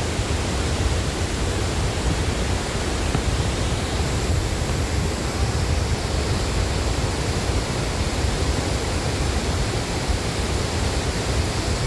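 Steady rush of a large waterfall, a loud, unbroken roar of falling water.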